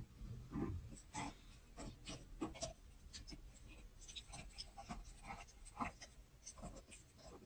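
Close-up wet mouth sounds of chewing a soft, creamy cheesecake: quick, irregular sticky smacks and clicks of lips and tongue, a few every second.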